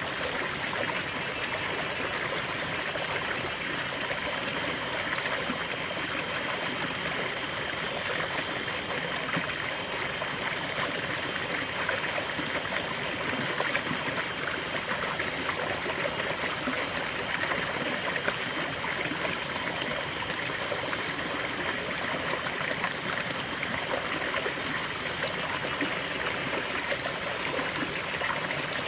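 Small waterfall and stream flowing steadily, a constant rush of water with fine splashing and trickling texture.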